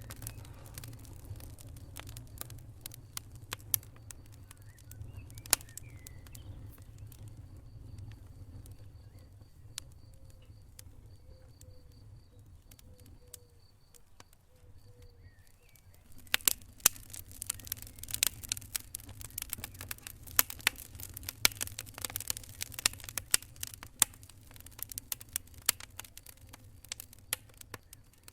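Wood fire crackling, with sharp pops and snaps over a low steady rumble of flames. The crackling thins out in the middle and turns dense and lively about halfway through.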